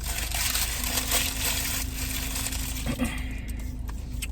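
Fast-food packaging rustling and crinkling as it is handled, stopping about three and a half seconds in, over a steady low hum.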